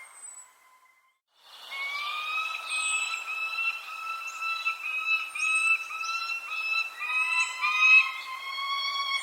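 Birds calling: short, high, falling chirps over a long, steady whistled tone that wavers and breaks briefly now and then. There is a brief near-silent gap about a second in.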